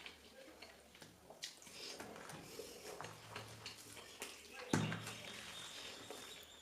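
Quiet eating sounds: scattered small clicks and smacks of someone eating. About 4.7 seconds in comes a single knock, and a soft steady hiss follows it.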